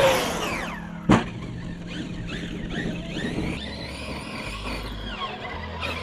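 RC monster truck's motor whining up and down in pitch as it is driven hard, with one sharp thump about a second in, like the truck landing or hitting the ground.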